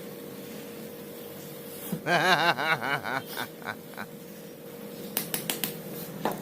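Electric shaver humming steadily. About two seconds in, a man gives a short giggle, and a few quick clicks come near the end.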